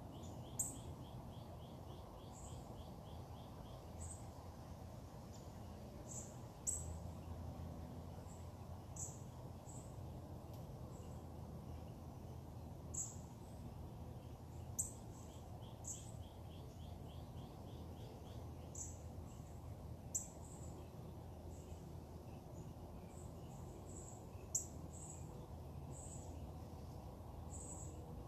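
Wild birds calling: short high chirps every second or two, and twice a fast trill of quickly repeated notes, over a steady low background rumble.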